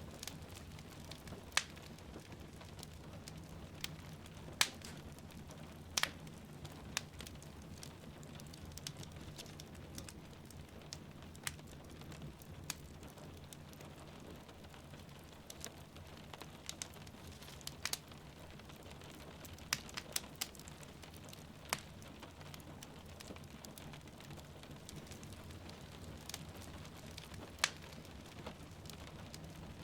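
Wood fire crackling in a fireplace, with sharp irregular pops every second or two, over a steady hiss of rain falling outside.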